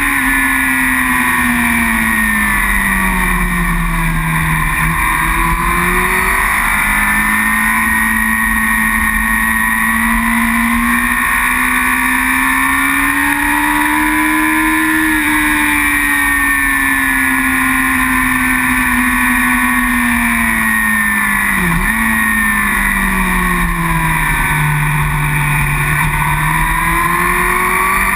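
Onboard sound of a racing superbike's engine running at speed, its pitch rising and falling smoothly in long sweeps as it speeds up and slows, with one quick dip and recovery about three-quarters of the way through.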